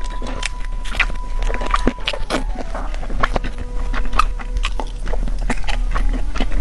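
Close-miked eating sounds: crisp, crackling bites and chewing of fried chicken, a quick run of sharp crunches and clicks.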